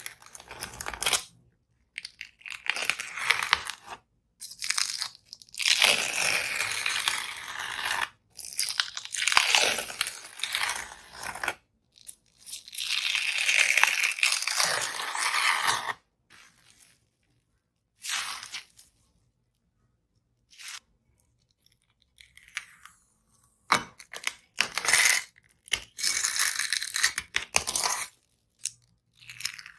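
The dried skin on a slime being torn, a crackly, hissing tearing sound. It comes in repeated stretches of one to four seconds with short gaps, and in the later part as a few short, sharp tears.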